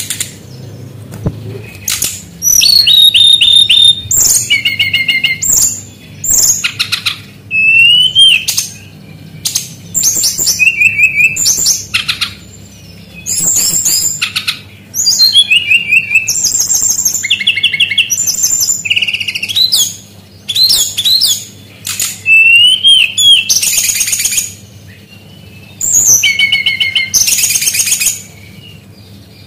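Brown-chested jungle flycatcher (sikatan rimba dada coklat) singing loud, high bursts of rapid repeated notes and trills, with short pauses between phrases; its song mimics other birds.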